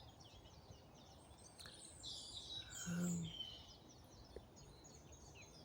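Songbirds singing and chirping in woodland, faint, busiest in the middle. About three seconds in, a person gives a brief low hum.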